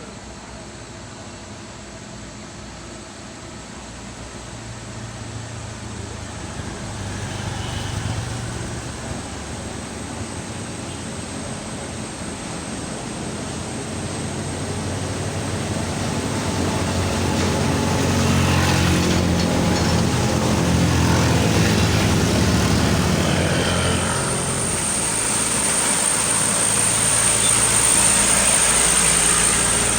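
Motor vehicle engines pulling up a steep hill. They get steadily louder as the vehicles draw closer and are loudest in the second half.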